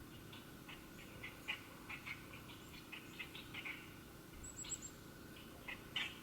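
Wild birds chirping: many short, scattered chirps, with a quick run of four high, thin notes about halfway through.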